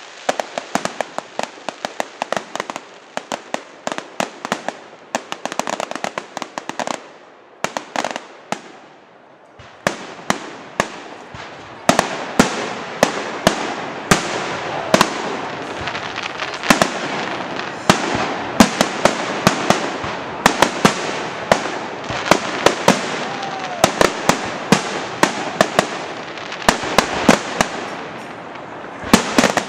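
Fireworks going off in quick succession: many sharp bangs over a continuous crackle, easing off briefly about eight seconds in, then building into a denser, louder barrage.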